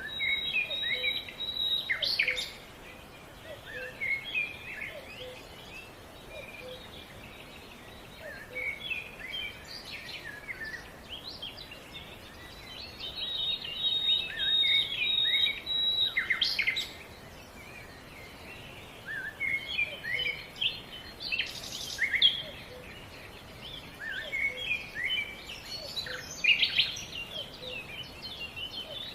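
Several songbirds chirping and singing over a steady faint outdoor background, with many short quick notes and, twice, a long high held trill.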